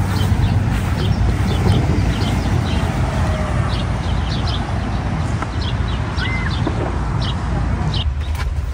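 Small birds chirping in short, high, repeated notes over a loud, steady low rumble. The rumble drops off a little near the end.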